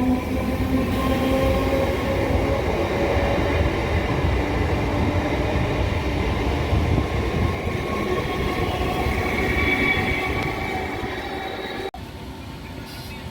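MEMU electric multiple-unit train running, with a low wheel rumble and steady motor tones that drift slowly in pitch. The sound drops suddenly to a quieter level near the end.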